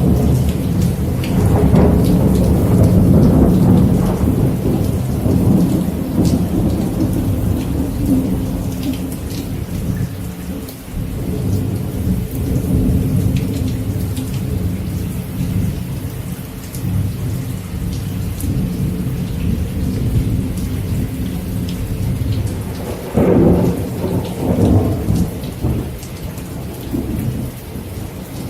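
Steady rain with thunder rolling low through it, loudest in the first few seconds, and a fresh rumble about three-quarters of the way through.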